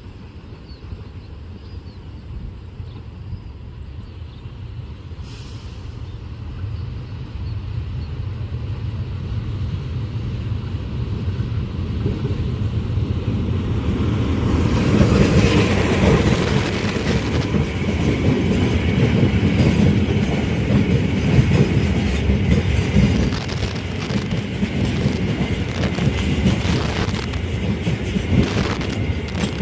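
A train approaching and passing at speed: a low rumble builds steadily, and about halfway through it becomes a loud, continuous rush of wheels running over the rails as the cars go by.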